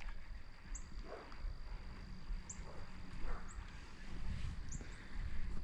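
Wind buffeting the microphone in a low, uneven rumble, with short high chirps at irregular intervals of about a second and a faint steady high whine.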